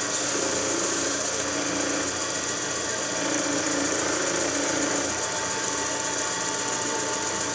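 Wood lathe running at a steady speed, its motor and spindle giving an even hum with a faint steady whine, while a finishing rag is held against the spinning wooden ornament.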